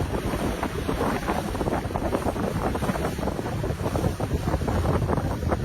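Wind buffeting the microphone aboard a moving motorboat, over the rush of the boat and water.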